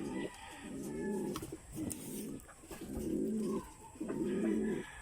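Racing pigeons cooing in the loft: a run of low, rolling coos, about one a second.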